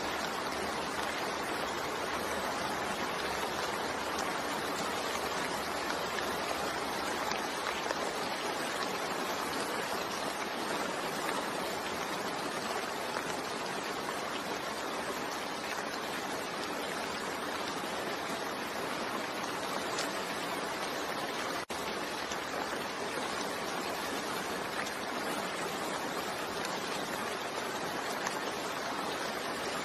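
Steady rain falling, an even hiss with no thunder. The sound briefly dips for an instant about two-thirds of the way through.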